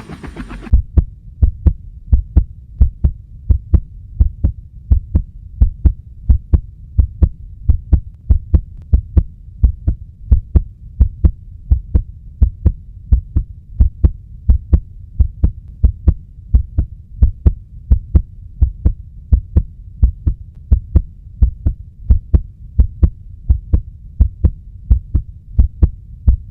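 Heartbeat sound effect: deep, even thumping about twice a second over a low hum, the kind of tension-building pulse used before a race start.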